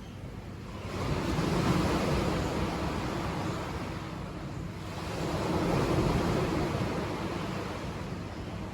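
Sea waves breaking and washing up a beach: one wave swells up about a second in and fades, and a second swells in about five seconds in and fades.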